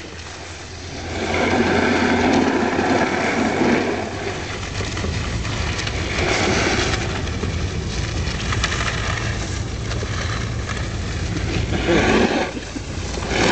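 Towing car's engine running with a steady low hum. Over it, a rushing, scraping noise from a sled and snowboard sliding over packed snow on tow ropes swells about a second in, and again around six and twelve seconds.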